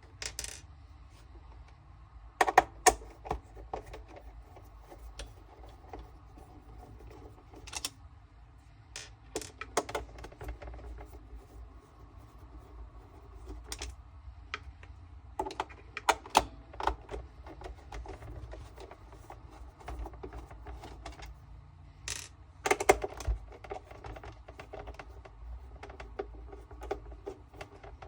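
Irregular clicks, taps and knocks of a robot vacuum's plastic housing and parts being handled and pulled apart, coming in scattered clusters with a few louder knocks.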